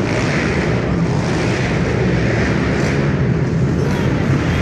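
Pit bikes (small single-cylinder motorcycles) running together on a dirt track, a loud continuous engine noise.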